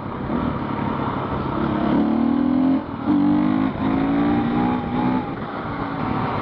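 Husqvarna FE501 dirt bike's single-cylinder four-stroke engine accelerating hard, its pitch climbing and dropping back as it shifts up through a couple of gears, then easing off.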